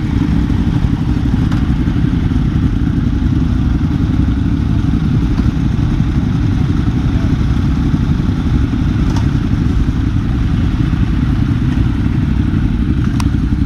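Ducati motorcycle engines running steadily, a loud low engine sound held at an even pitch without revving.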